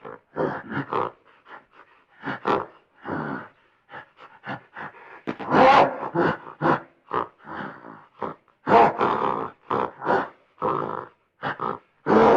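A farm animal grunting in a rapid series of short, loud calls, with a few longer, harsher calls among them.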